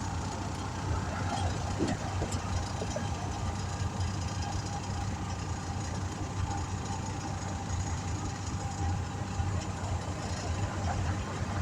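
Steady low hum of an engine running at idle, with a faint constant whine above it.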